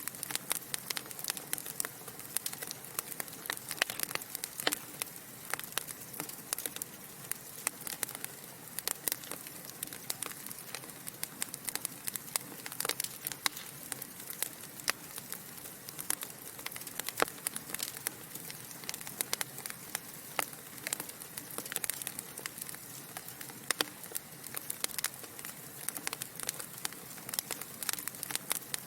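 Wood fire burning in a fireplace: dense, irregular crackles and pops from the logs over a steady soft hiss.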